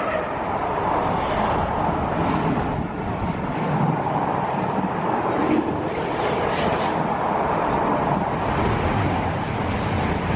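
Train running through the station with a steady rumble, and a few sharp clicks about six to seven seconds in.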